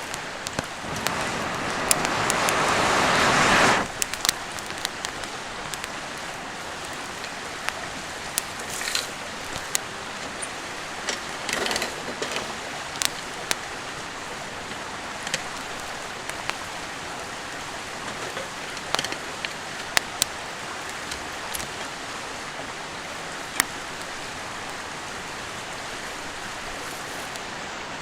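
Steady rushing of a nearby river, with scattered sharp crackles and pops from a wood campfire. For the first few seconds a louder hiss builds and then cuts off abruptly.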